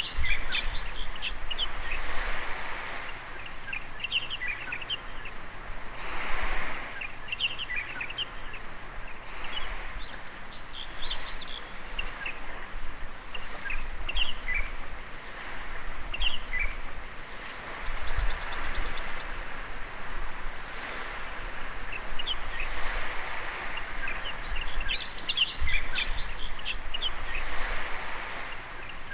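Small birds chirping and twittering throughout, with a quick trill of repeated notes about two-thirds of the way in, over the soft wash of small waves lapping a beach that swells and fades every few seconds.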